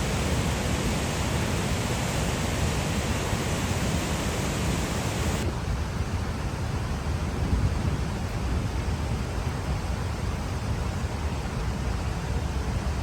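Rushing water from a waterfall or mountain river, a steady loud roar. About halfway through, the hissing top of the sound drops away suddenly, leaving a deeper rumble.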